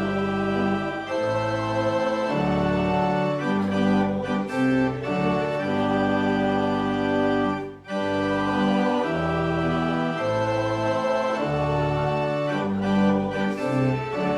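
Church organ playing a hymn in sustained full chords that change about once a second, with a short break between phrases about eight seconds in.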